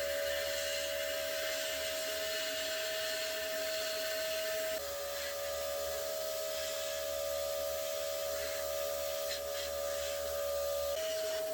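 A small electric motor, such as a workshop power tool, running steadily with a high, even whine, its pitch shifting abruptly about five seconds in and again near the end.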